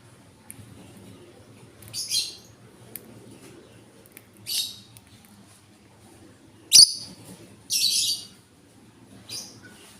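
A bird being hand-fed gives short, scratchy high-pitched begging calls, about five over several seconds, the food-begging of a hungry bird. A sharp click comes about two-thirds of the way through.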